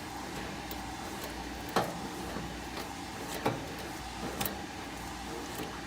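A few sharp clicks and knocks, the two loudest about a second and a half apart, from tools and parts being handled at the furnace, over a steady low hum.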